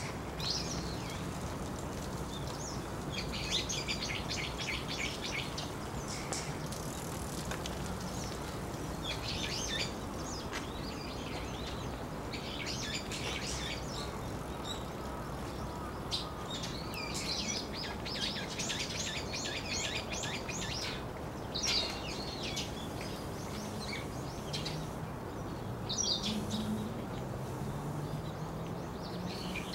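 Small birds chirping in repeated bursts of quick, high notes over a steady low background rumble of outdoor noise.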